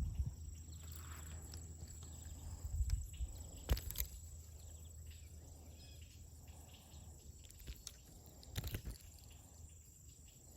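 Outdoor pond-side ambience: a steady high insect drone over a low rumble, with a few sharp clicks and knocks about a third of the way in and again past the middle.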